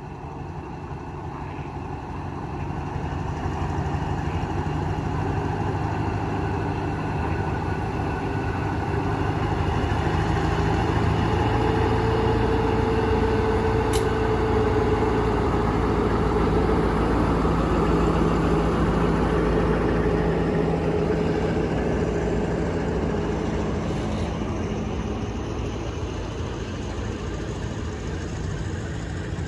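Diesel train engine running, growing louder over the first ten seconds and then holding steady, with a drawn-out tone standing out through the middle stretch. A single short, sharp click sounds about halfway through.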